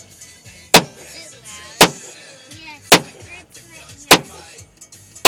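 Glock 22 pistol firing .40 S&W rounds at a steady pace, about one shot a second: four sharp shots, with a fifth right at the end.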